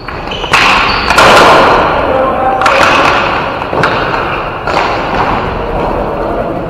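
Ball hockey play: about five loud thuds and bangs, such as the ball or players hitting the rink boards, each ringing on in a large echoing hall.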